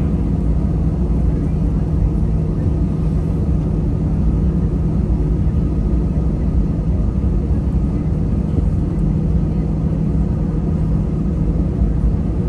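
Jet airliner cabin noise: a steady low rumble and hum from the engines, with no change in pitch or loudness.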